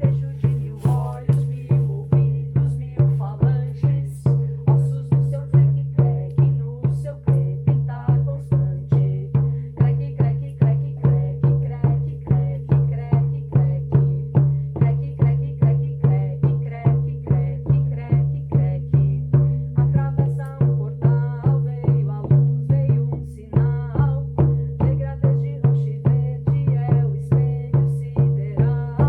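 Ritual percussion music: a steady drum beat, about two strokes a second, over a sustained low drone that drops out briefly about three quarters of the way through.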